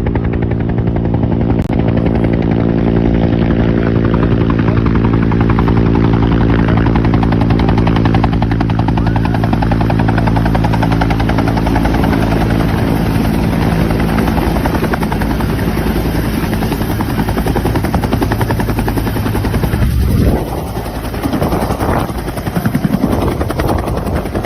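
Helicopter's rotor and engine running loud and continuously. An even pitched drone gradually gives way to a rougher rushing sound, and about twenty seconds in the sound drops and wavers.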